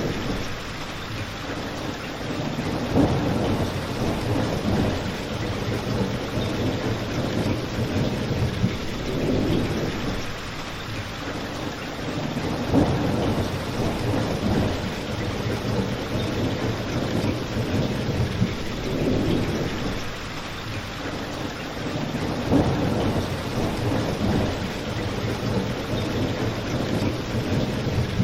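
Steady rain falling, with low rumbling swells that rise and fade every few seconds.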